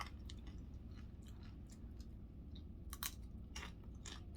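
Faint chewing: a person eating a mouthful of chicken burrito bowl, with scattered small mouth clicks and crunches.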